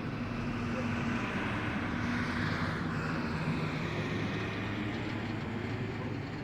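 Jet engines of a Ryanair Boeing 737-800 running as it comes in to land: a steady rumble under a jet hiss and whine that swells about two to three seconds in.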